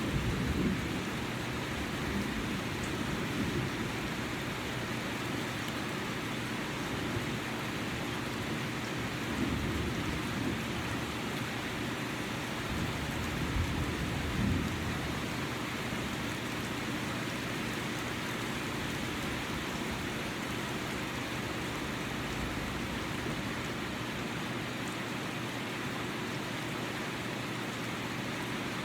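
Steady heavy rain falling, an even hiss, with irregular low rumbles in the first half that die away later.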